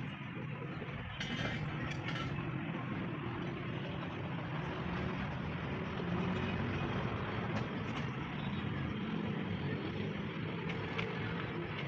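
A machine running steadily with a low hum, with a few short metallic clicks now and then.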